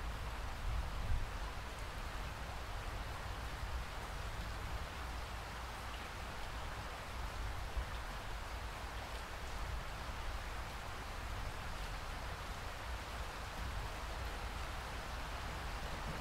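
Steady rain falling, an even continuous hiss with a low rumble beneath it.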